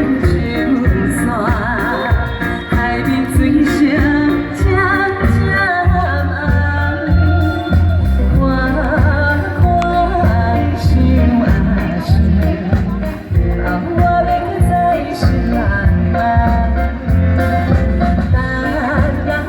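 Female singer singing live over instrumental accompaniment with a steady beat and a strong bass line.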